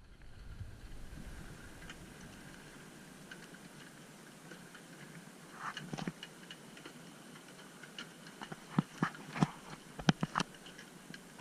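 Irregular sharp clicks and knocks over a faint steady hiss, sparse at first and louder and closer together in the second half.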